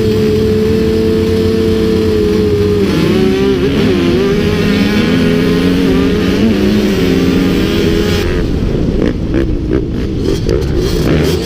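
Motocross bike engines running loud, at first held at steady revs for a few seconds, then revving up and down. Near the end the sound turns choppy as the throttle comes on and off.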